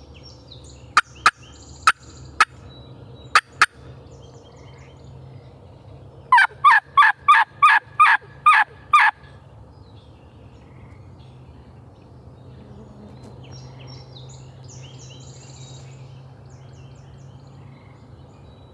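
Turkey calling close by: six sharp clucks in the first four seconds, then a loud run of about nine hen yelps lasting about three seconds, as from a hunter's turkey call.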